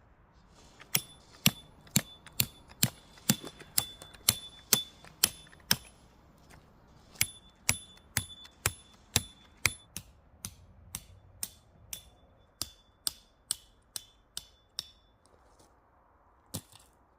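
Sharp strikes repeated at about two a second, many with a brief metallic ring, pausing briefly partway through.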